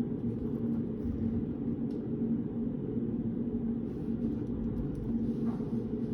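Steady low rumble of a reading room's background noise, with an even hum running through it and a faint tick about two seconds in.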